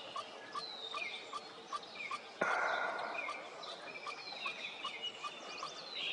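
Pileated woodpecker nestlings calling, a short note repeated about three times a second, among other bird calls with falling whistles. A sudden burst of noise comes about two and a half seconds in and fades over a second.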